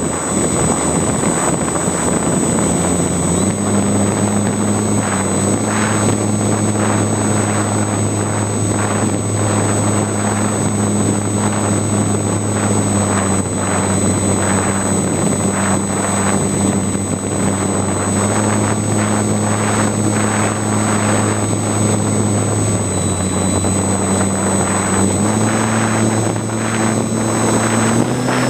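Electric motor and propeller of a battery-powered model plane running steadily, its pitch stepping up and down several times with throttle changes. Heavy wind rushes and buffets over the microphone throughout.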